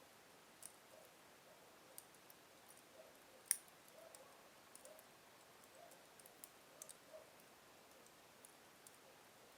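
Slow-burning wood fire in a fireplace crackling faintly: scattered small pops and ticks over a low hiss, with one sharper crack about three and a half seconds in.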